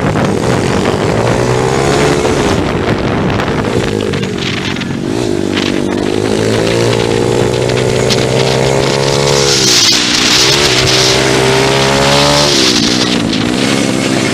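Pit bike engine running hard: the revs climb steadily, drop sharply as the throttle is shut about four, ten and thirteen seconds in, and climb again each time.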